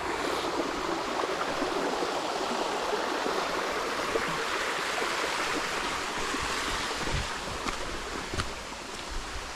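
Jungle creek water running steadily, easing a little near the end, where a few soft low thumps come through.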